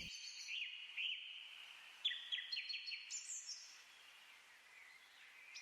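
Small birds chirping and twittering in short, high calls, several quick downward-sliding chirps clustered about two to three seconds in, then thinning out over a faint hiss.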